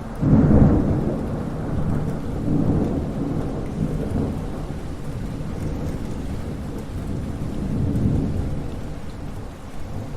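Thunder cracking and rolling with steady rain. A sudden loud clap comes just after the start, then a long low rumble that swells again near the end.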